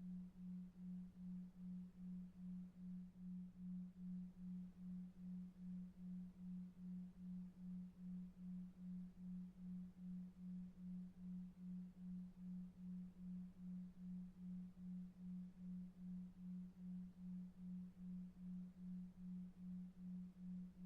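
Low pure tone pulsing evenly about two and a half times a second, a 2.5 Hz delta-wave sleep tone, over faint brown noise.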